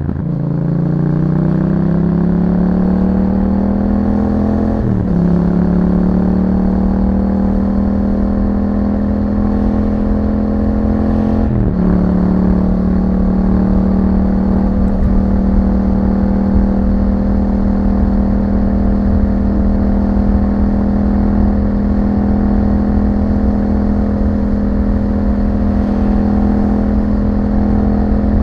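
Yamaha MT-07's parallel-twin engine through an aftermarket Akrapovic exhaust, accelerating with rising pitch and shifting up twice, about five and about twelve seconds in, then holding a steady cruising note.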